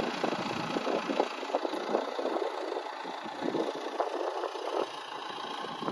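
A vehicle engine idling, with irregular crackles and rattles over it.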